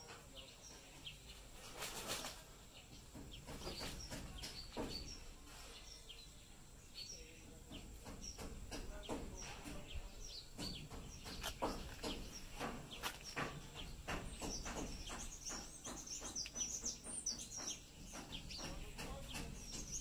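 Small birds chirping in short, high notes, busiest in the last few seconds, mixed with many faint clicks and rustles.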